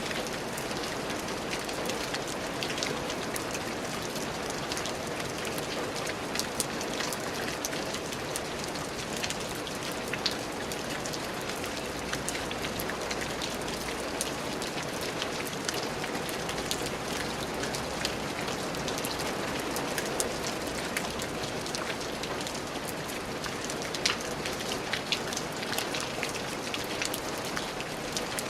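Steady rain falling on a surface, an even hiss with many small drop ticks and a few louder single drips.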